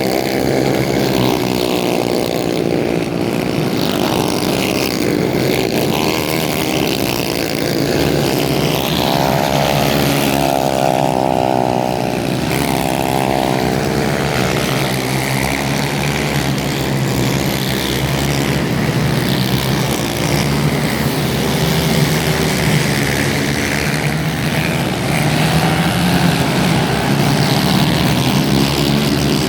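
Racing kart engines running hard, their pitch rising and falling as the karts accelerate and slow through the corners.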